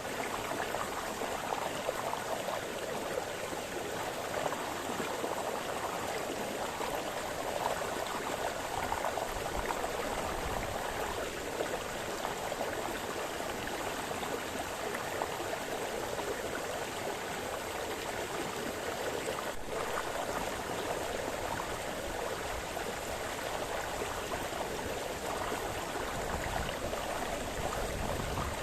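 Small forest brook babbling and splashing steadily over stones, a continuous even rush of water.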